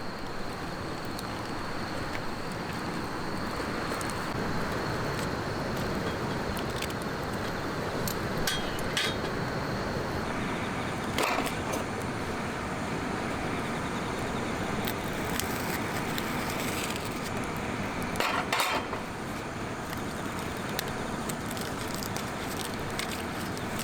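Wood fire burning with a steady rushing noise, with a few short sharp clicks and clinks about a third of the way in, near the middle, and again around three quarters of the way through.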